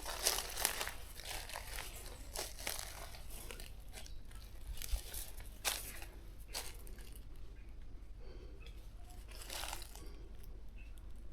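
Dry leaves, twigs and brush crunching and crackling as someone moves through undergrowth on foot. The crackles are irregular, thickest in the first few seconds and thinning out toward the end.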